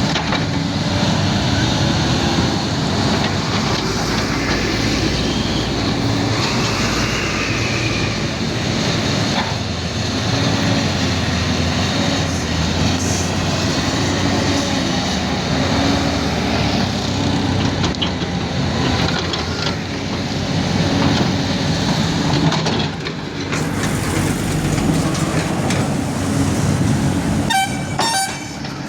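Bulldozer's diesel engine running steadily, with a quick run of sharp clicks near the end.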